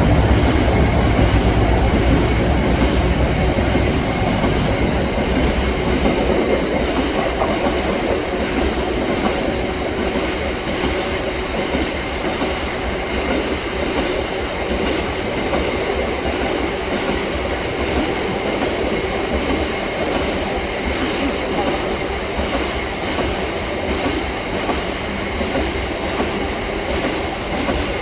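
A Class 60 diesel locomotive hauling a loaded biomass freight train past at speed. The heavy low engine rumble eases in the first few seconds, then a long rake of wagons rolls by with a steady clickety-clack of wheels over the rail joints.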